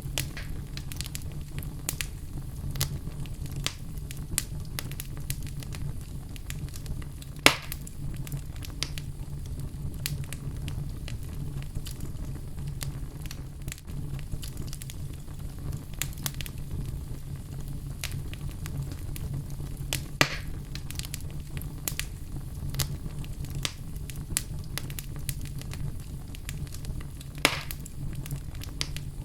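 Wood fire burning in a fireplace: a steady low rumble with constant crackling, and three louder pops, one about a third of the way in, one past halfway and one near the end.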